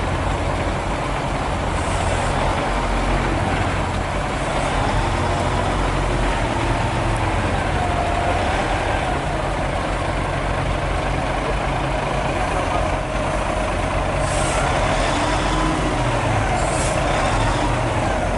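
Hino 500 FM320TI truck's diesel engine running under load, heard from inside the cab, with a faint wavering whine over the steady rumble. A few short air hisses come in the last few seconds.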